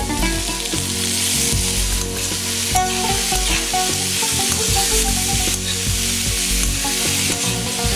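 Broad beans, tomato and onion sizzling in hot oil in a wok while a spoon stirs them through, scraping against the pan.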